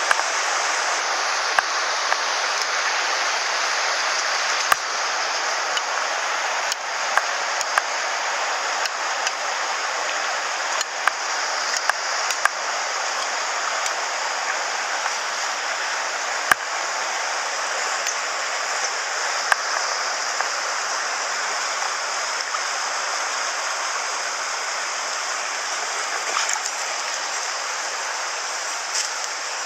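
Steady rushing water of a mountain headwater stream, with a few brief sharp clicks scattered through it.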